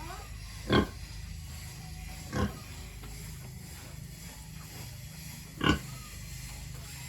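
Pigs grunting: three short, loud grunts spread over several seconds, over a steady low hum.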